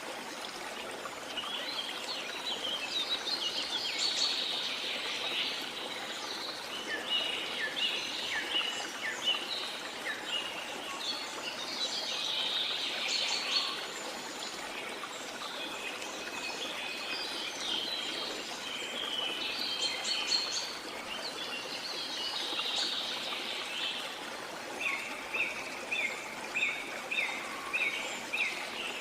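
Several birds singing and chirping over a steady rush of running water. Near the end one bird repeats a short note about every two-thirds of a second.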